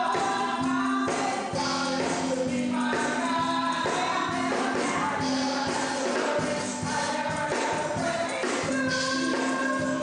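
Gospel music: a choir singing held notes over a steady beat, with a tambourine shaking throughout.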